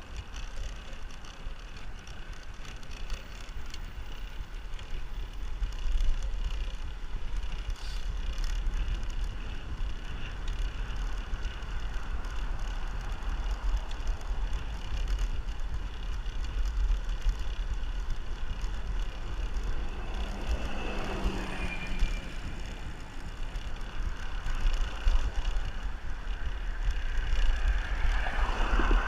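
Wind rumbling on the microphone with steady road noise from a bicycle ride. Two vehicles pass, each falling in pitch as it goes by: one about twenty seconds in and another near the end.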